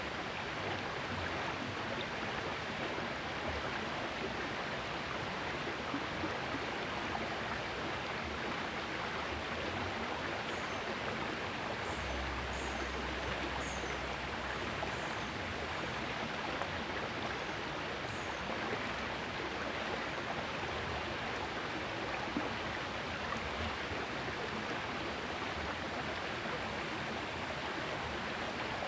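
Small river flowing: a steady rush of running water.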